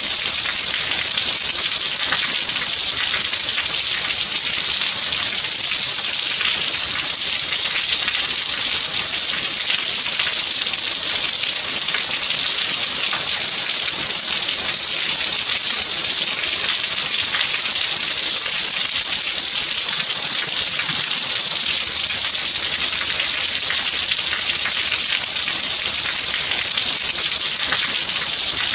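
Steady rain falling: a dense, even hiss with faint ticks of single drops scattered through it.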